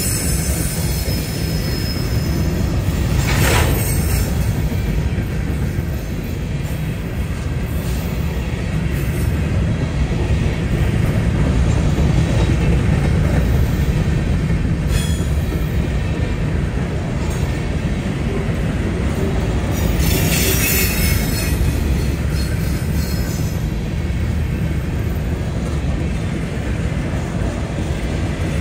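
Freight train rolling past: steady low rumble of the cars on the rails, with brief harsher bursts about three seconds in and again around twenty seconds in.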